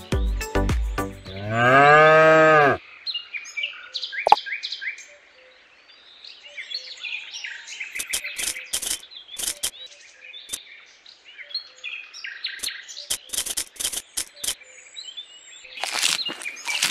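A cow moos once, a single long call about two seconds in, just after a bit of music ends. Then birds chirp, with scattered small clicks and taps.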